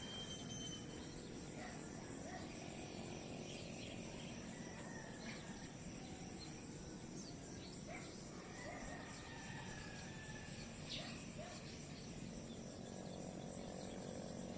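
Outdoor nature ambience: a steady background hiss with a few faint bird whistles, two longer slightly falling ones about three and eight seconds in.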